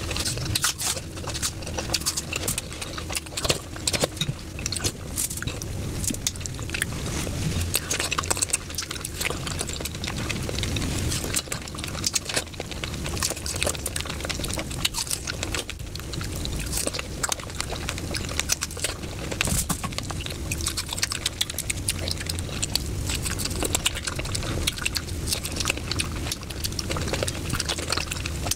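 Close-miked eating of fresh fruit: crisp bites and crunching, most likely from a red apple, mixed with wet, juicy chewing and mouth sounds. There are many irregular crackles and clicks with no pause.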